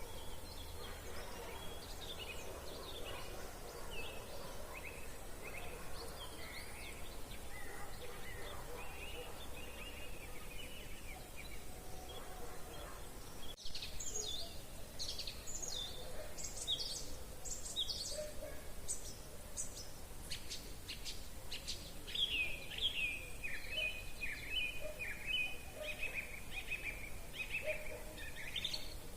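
Several songbirds singing and chirping at once in a mixed chorus, louder from about halfway. A fast run of repeated high notes comes near the end.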